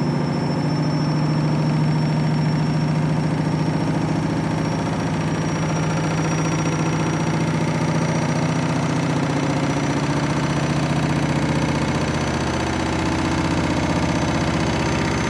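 Candy washing machine in its 1600 rpm final spin: the drum spins at high speed with a steady loud motor hum and drone. The level holds even, with a slight shift in pitch about twelve seconds in.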